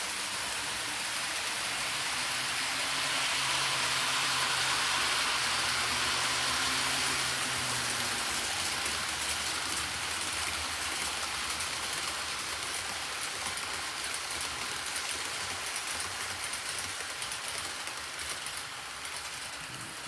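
Model trains running on the layout's track: a steady rush of metal wheels rolling on rail with a low electric motor hum, loudest a few seconds in as a train passes close. The hum fades out about eight seconds in, leaving the rolling noise with light ticking from the rail.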